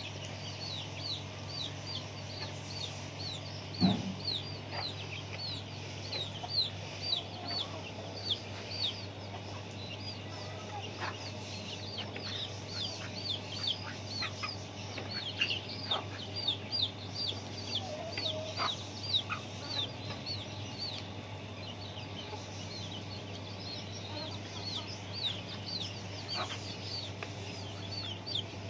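Chickens with chicks: a constant stream of high, short falling peeps, several a second, with occasional clucks. A single thump comes about four seconds in, and a steady low hum runs underneath.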